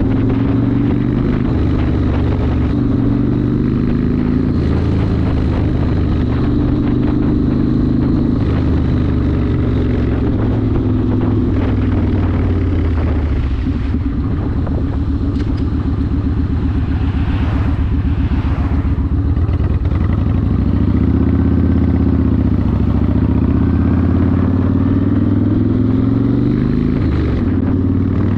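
Yamaha Warrior 1700's V-twin engine with a custom exhaust running under way, its pitch rising and falling a little with the throttle.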